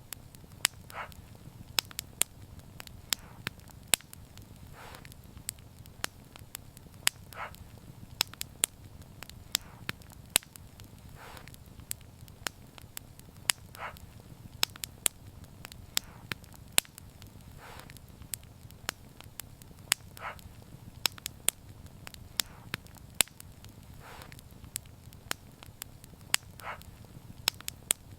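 Wood fire crackling: frequent sharp pops and snaps at irregular intervals over a steady low rumble, with a short, softer hiss every few seconds.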